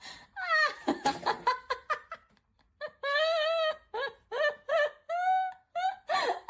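High-pitched laughter: a run of short squealing giggles that rise and fall in pitch, with one longer held squeal about three seconds in.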